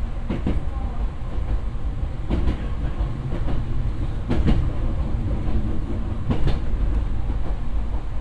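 Nose Electric Railway electric train running along the track, heard from inside its rear cab: a steady low rumble, with the wheels clicking over rail joints, often in quick pairs, every second or two.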